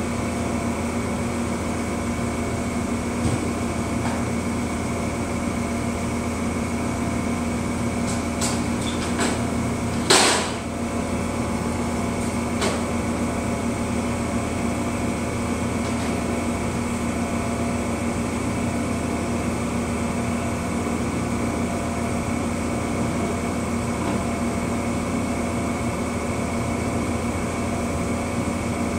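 Stationary Amtrak passenger train running its machinery at the platform, a steady hum with several fixed tones. A single sharp knock about ten seconds in, with a few faint clicks around it.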